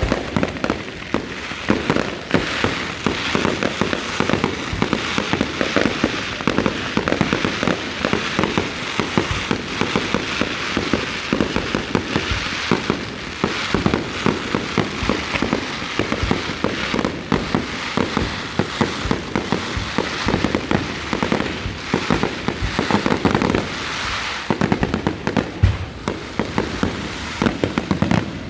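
Fireworks display: a dense, continuous barrage of bangs and crackling shells going off in rapid succession, stopping near the end.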